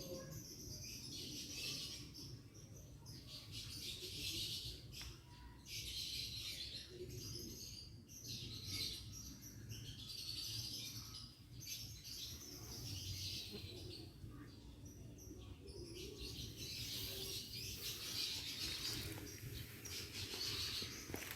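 Small birds chirping on and off throughout, over a steady low background rumble.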